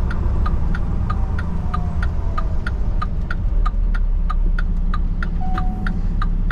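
Turn-signal indicator clicking about three times a second inside a semi truck's cab, over the steady low rumble of the engine and road.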